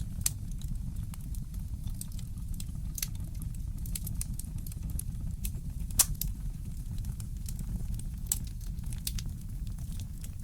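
Fireplace crackling: scattered sharp pops and snaps, the loudest about six seconds in, over a steady low rumble.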